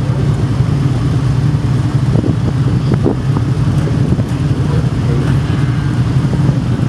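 Several racing sportbike engines idling together in a steady, even hum, with a light blip or two of throttle.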